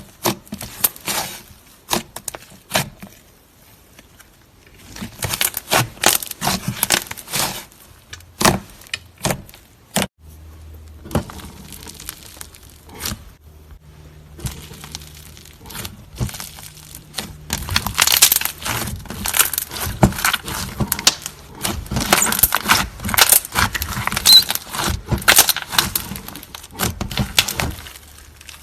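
Slime with clay mixed in being squeezed and kneaded by hand: spells of sticky crackling clicks and pops, busiest and loudest in the second half.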